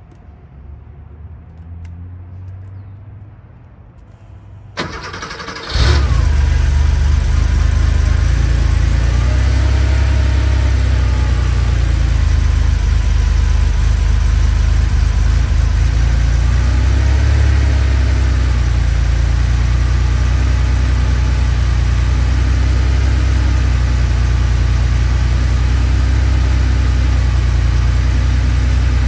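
1986 Porsche 911's air-cooled flat-six engine cold-started: a short burst of cranking about five seconds in, then it catches and settles into a steady fast idle.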